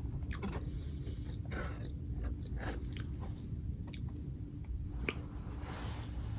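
A person eating close to the microphone: biting and chewing, with scattered short sharp clicks and crunches.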